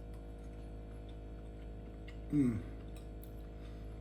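A man's short vocal sound, falling in pitch, about two and a half seconds in, over a steady low hum and faint scattered ticks.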